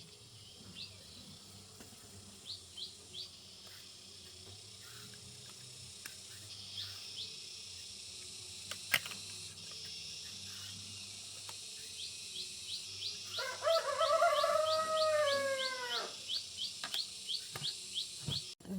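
Rural outdoor ambience: a steady insect hum with short, repeated bird chirps that quicken to about three or four a second in the second half. About two-thirds through comes a louder animal call, about two and a half seconds long, that falls in pitch at its end.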